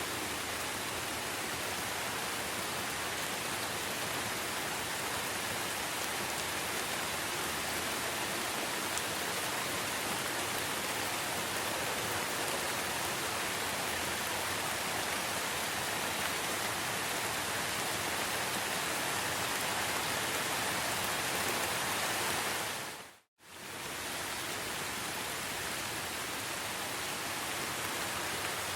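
Steady rain falling in a forest, an even hiss. About three-quarters of the way through it dips sharply to silence for a moment and fades straight back in.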